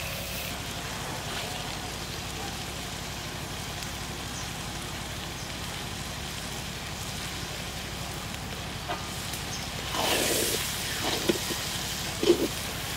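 Vegetables frying with a steady sizzle in a large iron kadai over a wood fire. About ten seconds in a metal ladle scrapes through the pan, followed by a couple of sharp knocks of the ladle against the pan.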